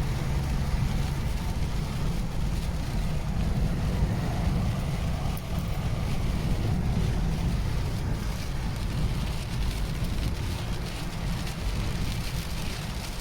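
Car driving in heavy rain on a waterlogged road: a steady rumble of tyres and wind with rain hiss over it, and wind buffeting the microphone.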